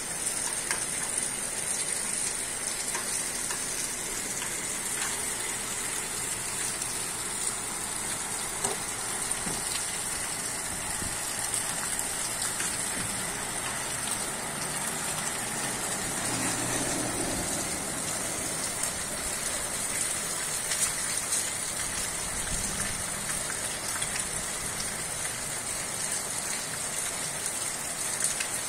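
Steady rain falling on a wet street and puddles: an even, continuous hiss.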